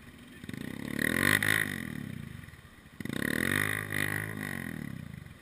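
Enduro dirt bike engine revving hard twice, the pitch climbing and then dropping each time, as a rider works the bike up a steep, wet, rooty climb.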